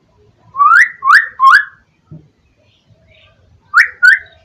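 Pet myna bird giving short rising whistles, a quick run of three and then two more near the end.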